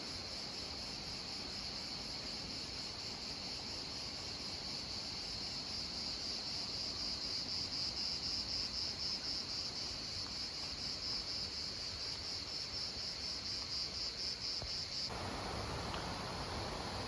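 Insects singing in a steady, shrill chorus that takes on an even pulsing rhythm partway through. Near the end it cuts off abruptly and gives way to a broad rustling noise.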